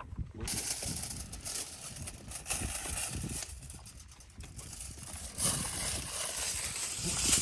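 Strong wind buffeting the microphone in uneven gusts, with irregular scuffs and knocks running through it.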